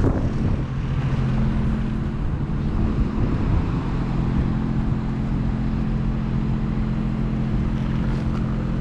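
A motor vehicle's engine running at a steady speed, a low even hum over road and wind noise. It comes in suddenly at the start.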